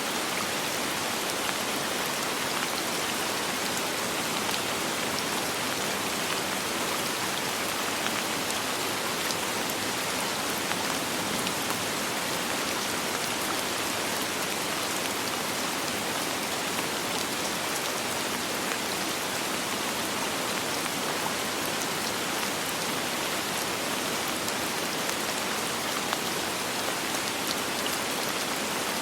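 Steady, even rain falling on surfaces, a dense hiss sprinkled with fine drop ticks and no thunder.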